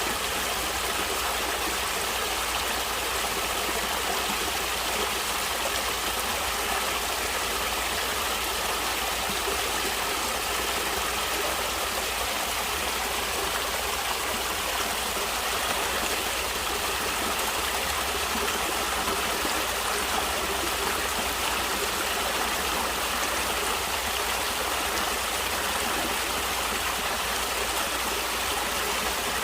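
Natural stream water flowing steadily, an even, unbroken wash of sound.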